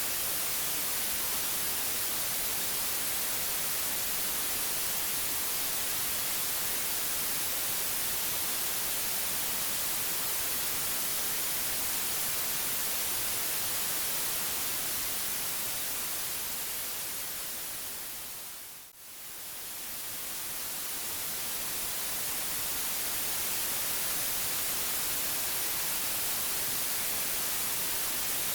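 Steady white-noise hiss, strongest in the treble. It fades down gradually to a brief near-silent dip about two-thirds of the way through, then swells back to full level.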